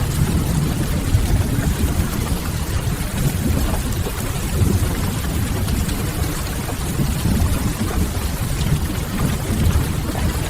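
Steady rain ambience with a deep, continuous rumble underneath, no breaks or distinct events.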